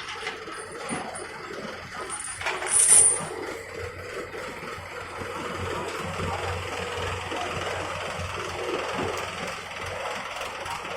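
Heavy vehicle engines running steadily, with one loud, brief, high-pitched hiss or metallic squeal about three seconds in.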